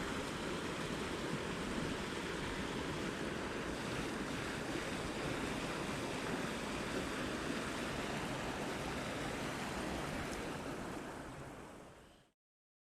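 Rushing water of a mountain stream, a steady even rush of noise that fades out and stops near the end.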